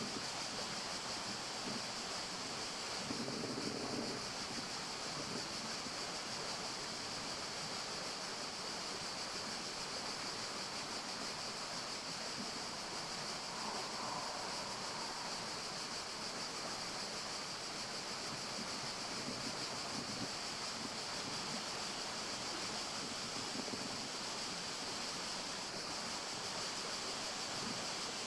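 Steady forest ambience: an even, unbroken hiss with its strongest part high up, and a couple of faint soft sounds about four and fourteen seconds in.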